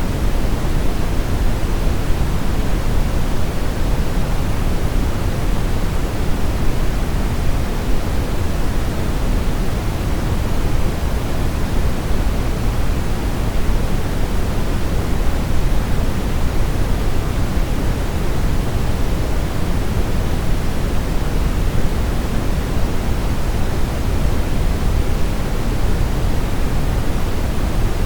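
Steady brown noise: an even, unchanging rushing hiss, strongest and deepest in the bass and thinning toward the treble.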